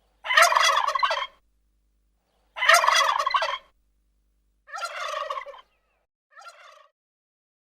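Domestic turkey gobbling four times, each gobble about a second long, the last two quieter and the final one faint.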